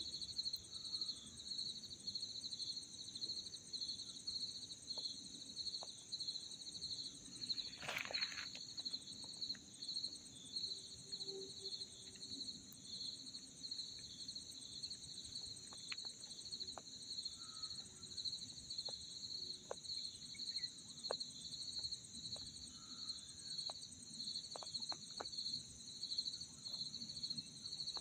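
Insects in forest ambience, chirring steadily: a rapidly pulsing high trill with a higher continuous hiss above it, over low background noise. A single sharp click comes about eight seconds in, and a few faint short calls are scattered through.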